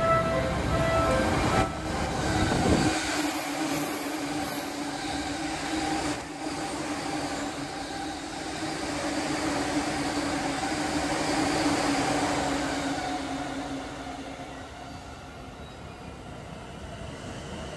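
JR East E235-1000 series commuter train passing at speed, its traction motors roaring with a steady hum over the rumble of wheels on the rails. The sound fades away in the last few seconds.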